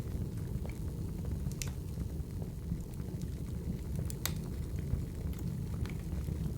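Burning firewood: a steady low rumble of the fire with scattered sharp crackles and pops, the loudest about four seconds in.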